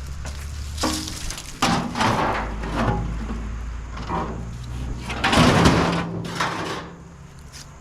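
Pieces of scrap metal scraping and clattering against each other as they are pried apart and dragged. There is a series of uneven scrapes, the loudest and longest about two thirds of the way through.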